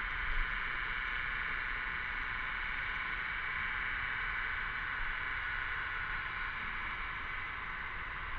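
Cicadas singing in chorus: a steady high buzzing drone that swells a little in the middle.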